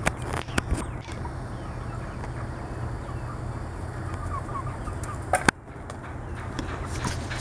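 Chickens clucking softly over a steady low hum, with a few sharp clicks in the first second and a louder click about five and a half seconds in.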